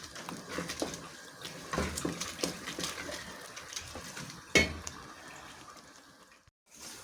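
Metal kitchen utensil clinking and knocking against a cooking pot in scattered small strokes, with one louder knock about four and a half seconds in.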